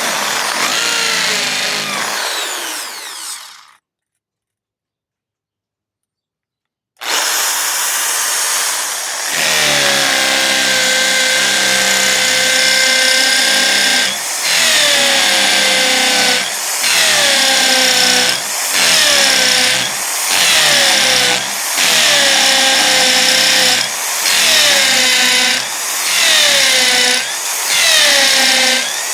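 WAP electric drill boring into a concrete column. The motor runs briefly, stops for about three seconds, then runs steadily. From about halfway it is let off and run up again roughly every second and a half, its pitch sagging as the bit bites into the concrete.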